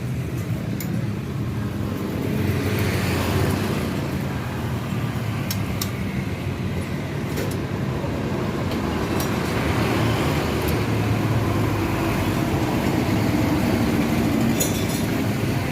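Steady running of motor-vehicle engines, with a low rumble that slowly shifts in pitch and a few light clicks.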